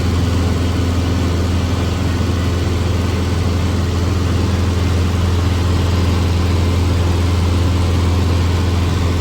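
1946 Cessna 140's air-cooled flat-four engine and propeller running steadily, with no change in speed, under a hiss of rushing air.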